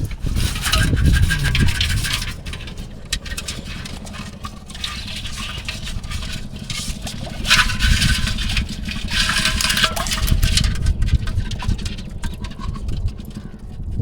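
Water splashing and sloshing in several uneven surges, over a steady low rumble.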